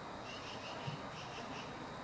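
A faint run of high, evenly spaced chirps, about five a second, over a low outdoor background hiss.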